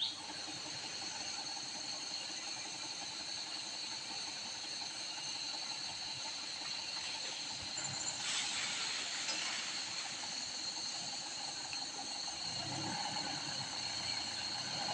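Steady outdoor hiss with a thin, steady high-pitched whine running through it, and a brief louder rush of hiss about eight seconds in.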